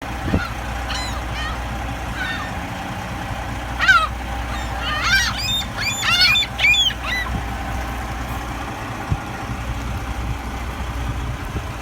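Seagulls calling with short cries: a few scattered early, a loud one about four seconds in, then a flurry of overlapping calls over the next two seconds. A steady low rumble runs under them.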